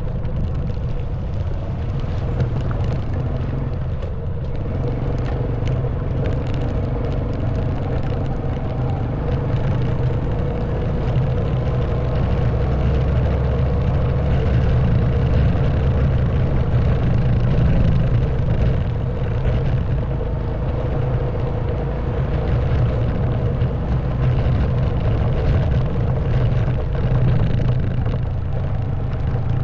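Honda Wave 110cc scooter's single-cylinder four-stroke engine running steadily under way, with wind rushing over the microphone. The engine note swells a little in the middle and eases again near the end.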